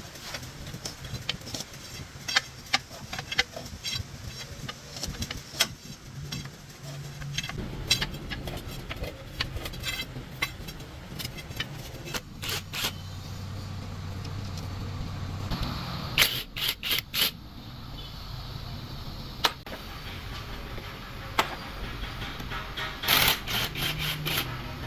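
Repeated sharp knocks and clinks, some in quick runs of several strikes, over a low steady hum.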